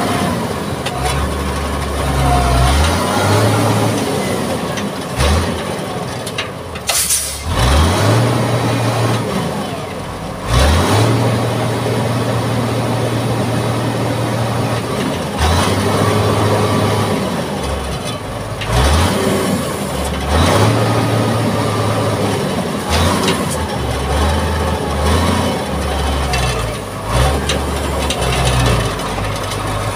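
Mitsubishi MG330 motor grader's diesel engine running under varying load, its pitch stepping up and down every few seconds, with several short sharp hisses.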